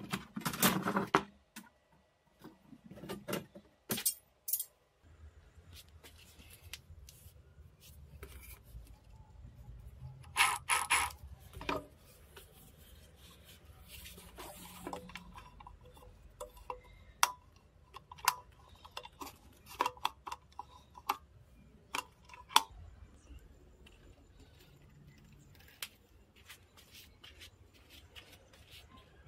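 Intermittent metallic clinks, knocks and clatter, as of metal parts and tools being handled, over a faint low steady hum that comes in about five seconds in.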